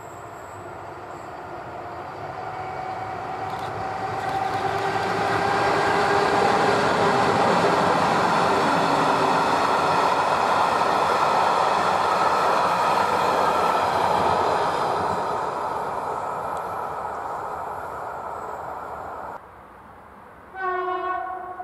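EU07 electric locomotive and its passenger coaches passing at speed: a rush of wheels on the rails with a steady tone, building, holding loud and fading away. Near the end, after a cut, an EP07 electric locomotive sounds its horn in a sudden loud blast, the Rp1 warning signal.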